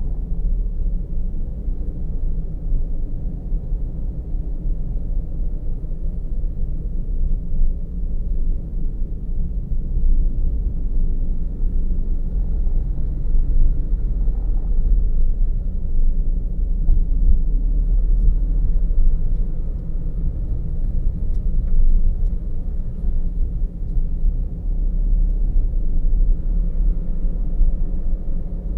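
Car driving along a road, recorded from the car itself: a steady low rumble of engine and tyre noise.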